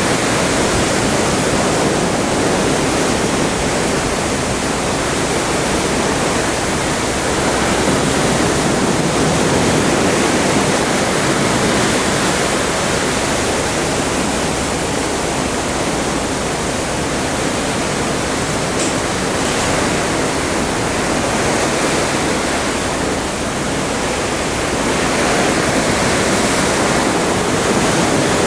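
Atlantic sea water rushing along the side of a moving cruise ship: a steady, loud wash of water that eases a little about two-thirds through and swells again near the end.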